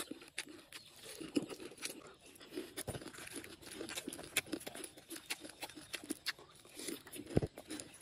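A person chewing a mouthful of fried june bugs close to the microphone: irregular crisp crunches and crackles.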